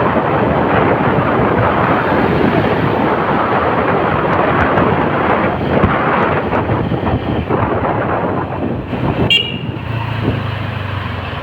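Riding on a motorcycle taxi: loud rushing wind and traffic noise, with a short horn beep about nine seconds in, after which a low steady engine hum comes through as the rushing noise drops.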